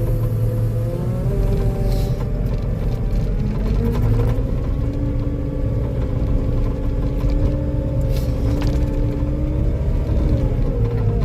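Skid steer's diesel engine running steadily under load, with a hydraulic whine that rises in pitch about four seconds in and drops back near the end. Two brief clanks, about two and eight seconds in.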